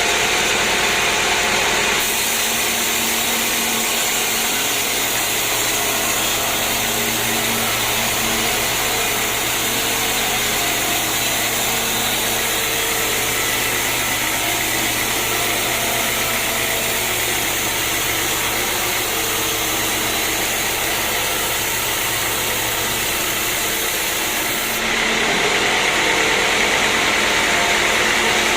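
Sawmill machinery running steadily, a dense mechanical noise with a low hum underneath. Its sound changes about two seconds in and again near the end.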